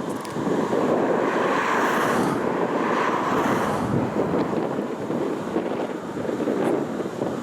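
Freight train rolling past with a steady rumble and rattle of wheels on rails, and wind buffeting the microphone.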